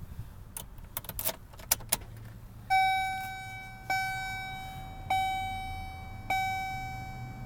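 Keys jangling and clicking in the ignition of a 2007 GMC Canyon pickup, then the truck's dashboard warning chime bonging steadily about once every 1.2 seconds as the key is turned on.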